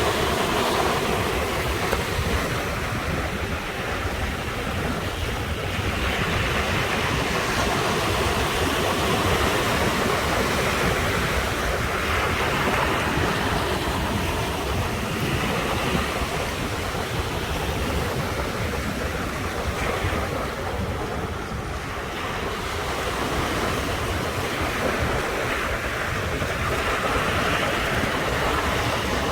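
Sea waves breaking and washing on the shore, a continuous surf wash that swells and eases every few seconds, with some wind buffeting the microphone.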